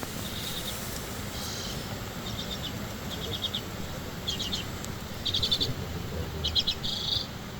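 A small bird chirping in short, rapid trilled phrases, about one a second, over a low steady rumble.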